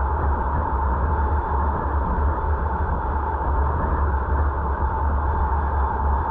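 Steady road and wind noise of a moving car, picked up by a dashcam in the cabin, with a deep rumble and a constant mid-pitched hum.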